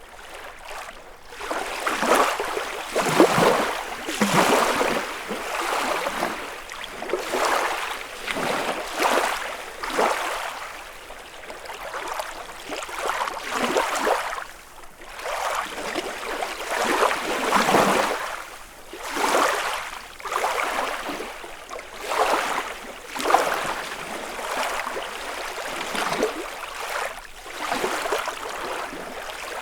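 Small lake waves lapping and splashing against the shore, one wash every second or two.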